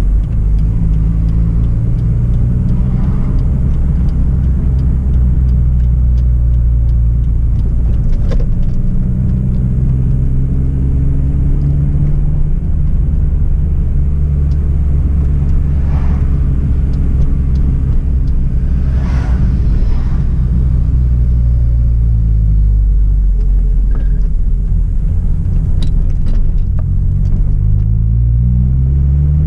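Hyundai Tiburon's 2.0-litre four-cylinder petrol engine and exhaust droning while driving. The low drone holds fairly steady, its pitch creeping up around the middle and dropping back about three-quarters of the way through, then rising again as the car accelerates at the end.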